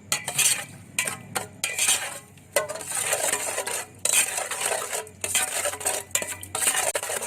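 A spoon stirring in a bowl, clinking and scraping against its sides in quick, irregular strokes, as a dressing is mixed.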